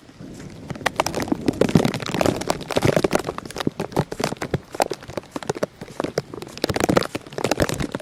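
Water pattering and splashing: rapid, irregular sharp taps over a rushing noise that swells about a second in.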